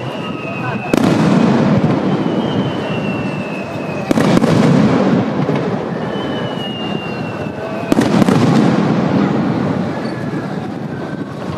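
Aerial firework shells going off one after another, three times. Each starts with a thin whistle that falls slightly in pitch and ends in a sharp bang, followed by a long echoing tail of rumble and crackle.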